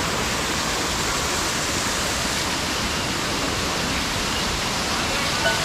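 Steady rushing noise of flowing water, even and unbroken. Soft piano notes begin to come in near the end.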